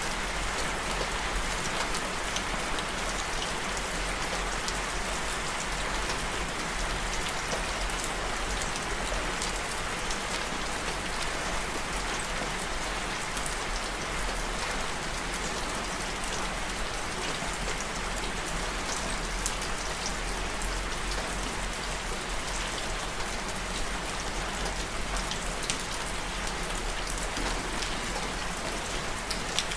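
Steady rain falling on a surface, a dense even hiss with scattered individual drop patters.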